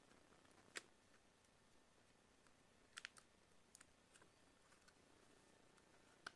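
Near silence broken by a handful of faint, sharp clicks and taps, scattered unevenly with a close pair about three seconds in: small tools, screws and plastic tablet parts being handled during disassembly.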